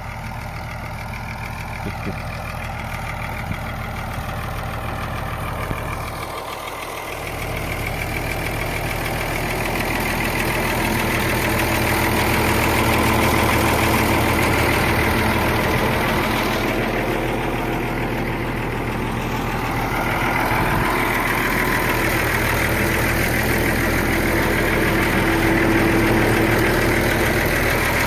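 Tractor engine running steadily, getting louder about ten seconds in.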